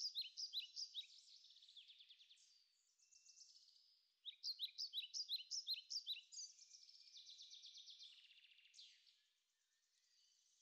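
A small songbird singing quick, high chirps and trills in two bouts, the second starting about four seconds in and fading out near the end.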